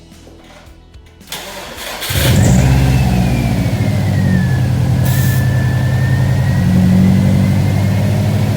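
2005 Subaru STI's turbocharged 2.5-litre flat-four engine starting about two seconds in, then running steadily at idle with a thin whine that dips in pitch and slowly rises again.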